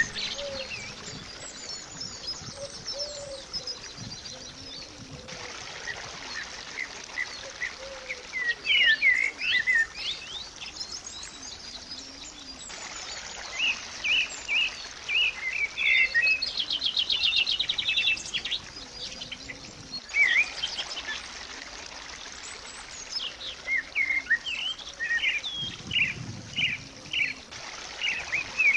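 Small songbirds chirping and singing, many short quick calls with a fast trill in the middle.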